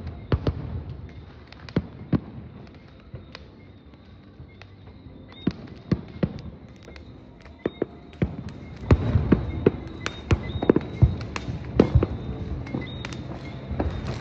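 Fireworks going off: scattered sharp bangs at first, then a dense run of booms and crackling reports from about two-thirds of the way in.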